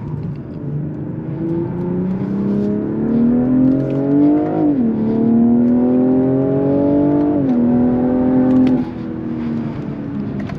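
BMW M340i's turbocharged 3.0-litre inline-six accelerating hard under full throttle, pulling through two quick upshifts about halfway through and again near three-quarters of the way. The engine then drops back as the throttle is lifted near the end.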